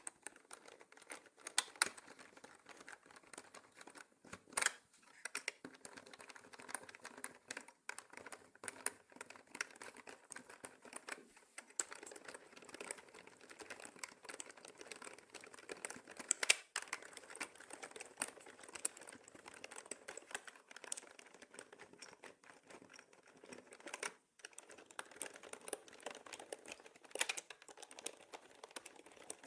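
Continuous typing on a mechanical keyboard: a dense, irregular run of key clicks with a few louder strokes and brief pauses.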